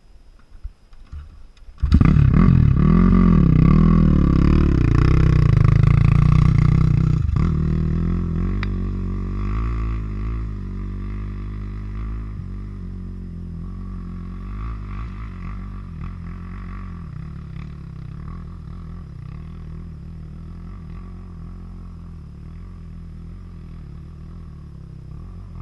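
450cc four-stroke dirt bike engine coming in abruptly about two seconds in and revving hard with rising and falling pitch, then settling to a steadier, gradually quieter run.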